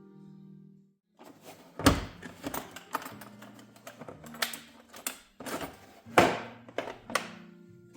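A quick irregular series of sharp knocks and clicks, the loudest about two seconds in and near six seconds, over faint background music.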